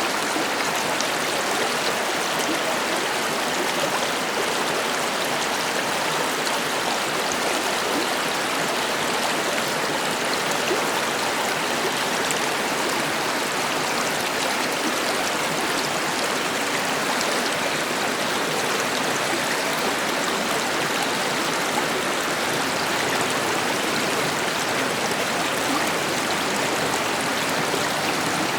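A river flowing over stones: a steady, even rush of water.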